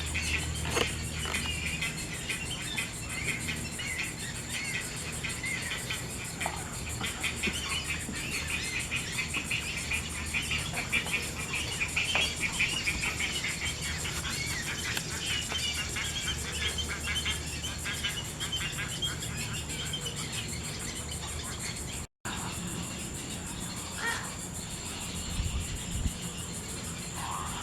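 Evening chorus of insects: a dense, rapidly pulsing buzz, with a steady high whine above it.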